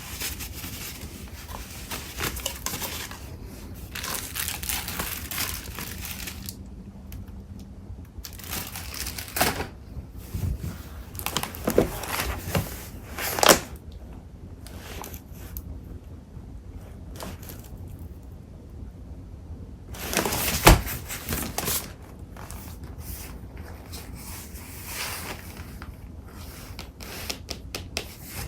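Paper and card stock being shuffled and handled, rustling and crinkling in irregular bursts with a few sharper crackles and knocks.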